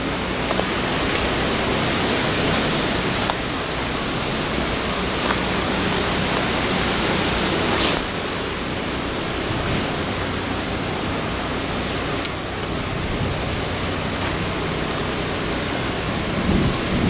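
Steady rushing noise of wind buffeting the microphone, with a few faint, short, high bird chirps in the second half.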